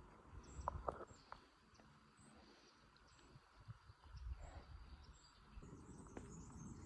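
Near silence: faint outdoor ambience with soft, short high chirps repeating about once a second and a few faint clicks about a second in.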